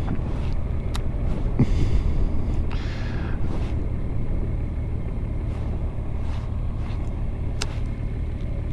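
Motorcycle engine running at low road speed, a steady low rumble.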